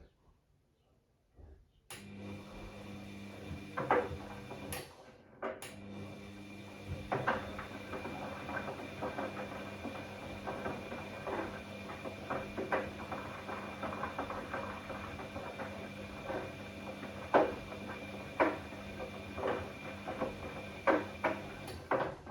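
Bosch Classixx 6 washing machine drum turning on a wash tumble: the motor starts with a steady hum about two seconds in while the load tumbles with irregular knocks and clicks, and it stops just before the end.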